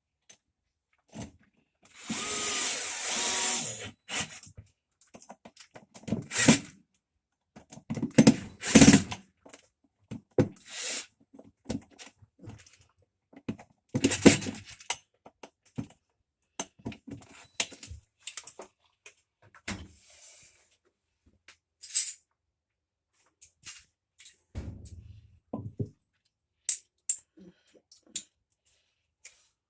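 A power tool runs for about two seconds near the start. After it come scattered knocks and clicks of tools on metal, a few of them louder.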